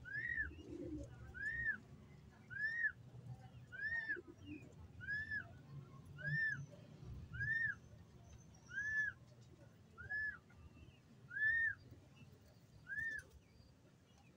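A bird's high call, a short note that rises and falls, repeated evenly about once every second and a bit, eleven times, over low rumbling noise.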